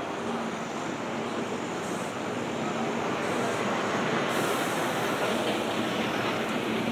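Steady road traffic noise that swells gradually as a vehicle draws close.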